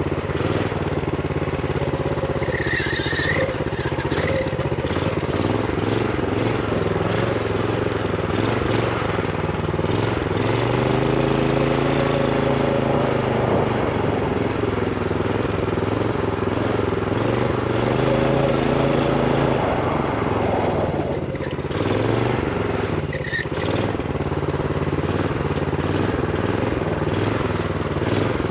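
Minibike's Honda GX390 single-cylinder four-stroke engine running under way, its revs held low by a throttle stop screw, rising and falling in pitch as the throttle opens and closes. A few brief high-pitched squeals come through, near the start and twice toward the end.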